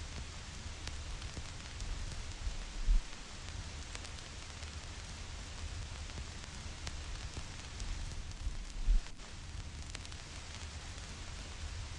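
Vinyl record surface noise: a steady hiss with scattered crackles and pops from the stylus in the groove. Two short, low thumps about six seconds apart stand out as the loudest sounds.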